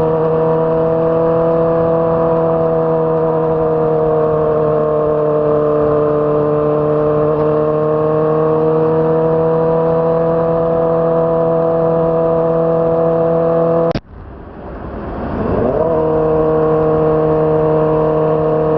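2006 Honda CBR600RR's inline-four engine with a Yoshimura exhaust running at a steady, fairly high engine note. About fourteen seconds in the sound cuts off abruptly, then the revs climb back up to the same steady note over a second or two.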